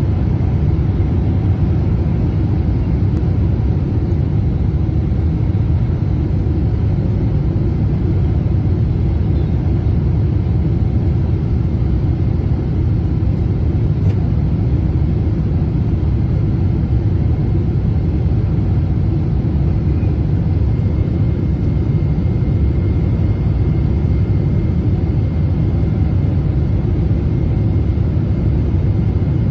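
Steady low rumble of an airliner's engines and rushing air heard inside the passenger cabin during landing. A faint high whine joins about two-thirds of the way through.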